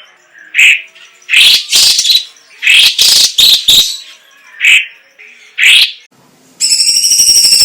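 Chinese leafbird (cucak cungkok) calling: a run of loud, short, high chirps and whistles in separate bursts, some doubled or tripled. About a second before the end, a steady buzzing trill with a fast rattle starts up and holds.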